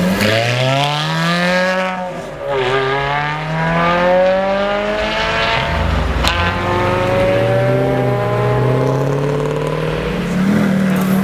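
Ferrari F430's V8 accelerating hard, its exhaust note rising in pitch through three gears, with upshifts about two and six seconds in. It settles to a steady note near the end.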